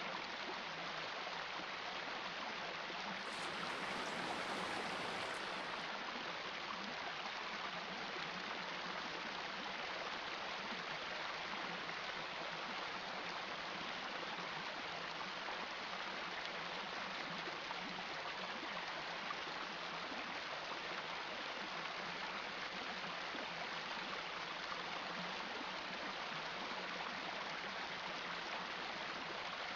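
Shallow river running, a steady, even rush of flowing water.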